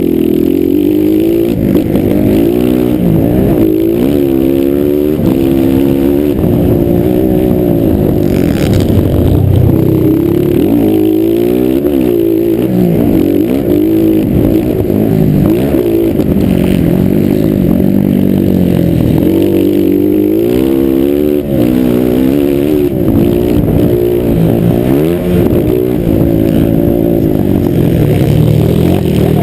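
Several motocross bikes' engines revving hard and easing off over and over as they ride the track, the pitch rising and falling every second or two with more than one engine heard at once.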